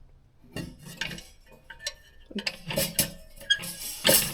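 Irregular metallic clinks and clanks of hand tools and loosened exhaust parts on the car's exhaust header and catalytic converter, with a louder clank near the end.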